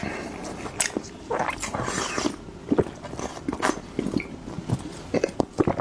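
Close-up eating sounds: a person chewing and biting food, with irregular wet clicks and smacks and a longer noisy stretch, like a slurp, a little over a second in.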